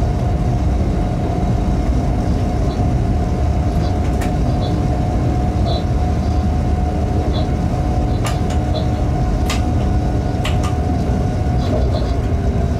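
Freight train running steadily at speed, heard from the locomotive cab: a constant heavy rumble with a steady hum, broken by a few sharp clicks in the second half.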